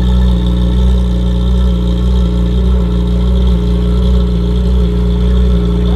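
Lotus Emira GT4 race car's 3.5-litre supercharged V6 running loud at a steady, unchanging pitch, with a light regular pulse in its note.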